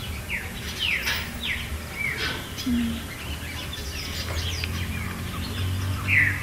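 Small birds chirping: many short, quick downward chirps, scattered irregularly, over a steady low rumble.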